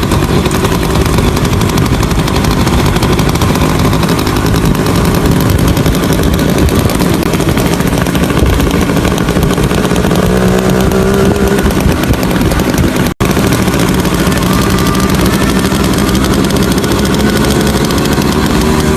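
Underbone motorcycle engine and exhaust running loud and rough while being ridden, with a brief dropout about 13 seconds in.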